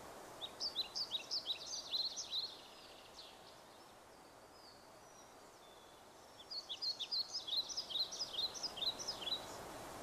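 A bird singing two bouts of rapid, high chirping notes, the first near the start and the second from about six seconds in until near the end, over a steady outdoor hiss.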